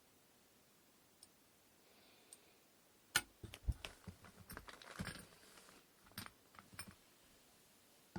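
A run of sharp clicks and light knocks from small hard parts being handled and set down, starting about three seconds in and lasting about four seconds, the first click the loudest.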